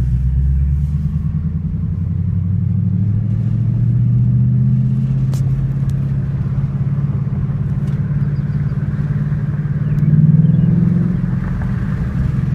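2012 Ford Mustang GT's 5.0 L V8 through an MBRP Race Series cat-back exhaust, heard from inside the car while driving. It gives a deep exhaust note that rises a little in pitch over the first few seconds and swells louder about ten seconds in.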